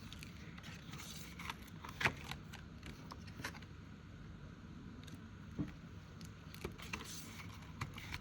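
Paper envelopes and challenge sheets being handled and slipped into a budget binder: light rustling with scattered soft taps and clicks, the sharpest about two seconds in.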